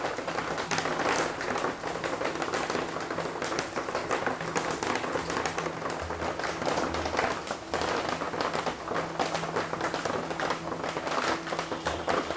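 Heavy rain falling, a dense continuous wash of drops striking and splashing, with many sharp individual drips, over a faint steady low hum.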